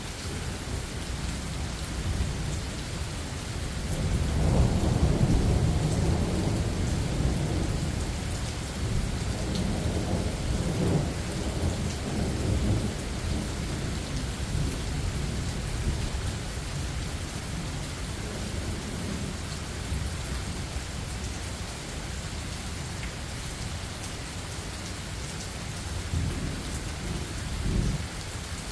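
Steady rain falling, with rolling thunder: a long low rumble builds about four seconds in and fades away over several seconds, and a shorter rumble swells near the end.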